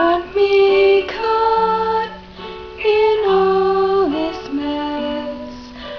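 Music: a young female voice singing held notes with a few slides between them, over instrumental accompaniment.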